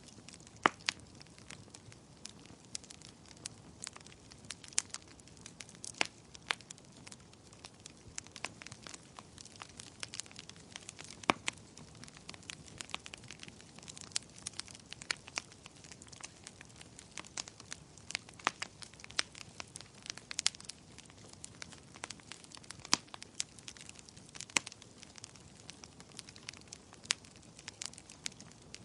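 Wood fire in a fireplace crackling: irregular sharp pops and snaps over a soft steady hiss, a few pops louder than the rest.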